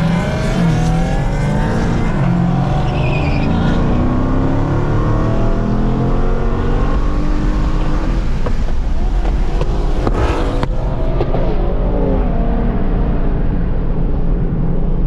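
Car engines revving and accelerating over a steady low rumble, several engine notes rising and falling and overlapping. A brief burst of sharp noise comes about ten seconds in.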